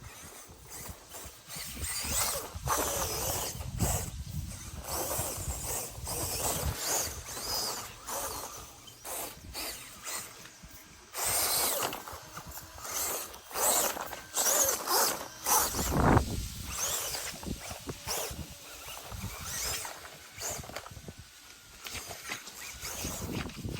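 Axial SCX24 micro RC crawler driving over rough ground: the little electric motor and gears whine in stop-start bursts, rising and falling with the throttle, while the tires scrabble and crunch over dirt.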